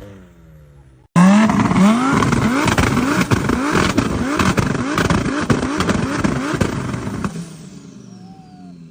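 Turbocharged car engine on anti-lag, revved in quick repeated blips of about three a second, with sharp bangs and pops from the exhaust. It starts abruptly about a second in and dies away near the end.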